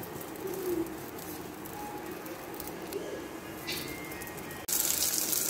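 Faint low cooing calls of a bird, heard twice over a quiet background hiss. Near the end the sound cuts abruptly to a louder steady hiss.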